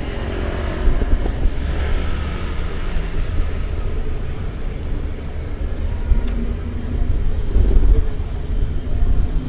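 City street ambience: road traffic running past, with a heavy, continuous low rumble.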